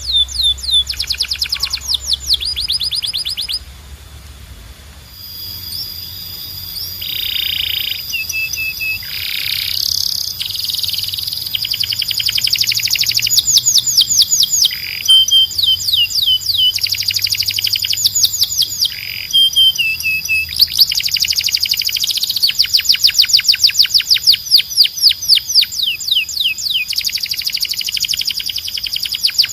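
Canary singing loud, fast rolls of rapidly repeated high sweeping notes, switching from one trill to the next. There is a short lull a few seconds in.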